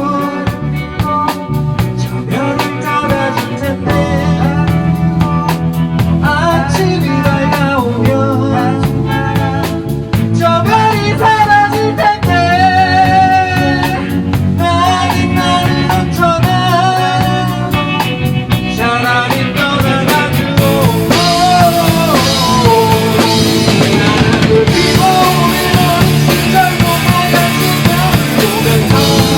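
Rock band playing live: drum kit with fast cymbal strokes, bass, and a lead line with bending notes over the band. About twenty seconds in the cymbals get fuller and brighter.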